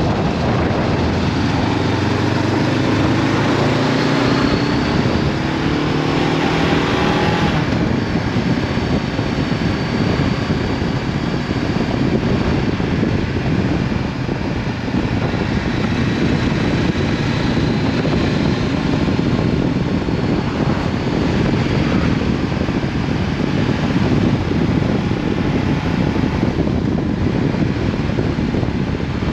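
Honda CB500F parallel-twin engine with an Akrapovic exhaust, accelerating with its pitch rising for the first several seconds. After that, steady wind rush on a helmet-mounted microphone at riding speed covers most of the engine.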